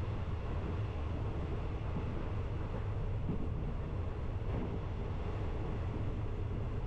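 Passenger train running: a steady low rumble of wheels and carriage noise with no distinct knocks or horn.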